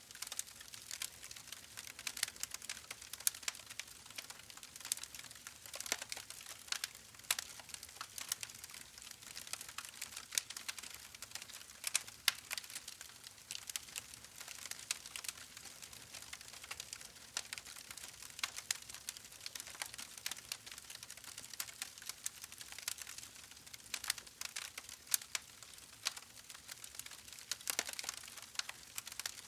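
Wood fire burning in a fireplace: a steady soft hiss with frequent irregular crackles and pops, some sharper and louder than others.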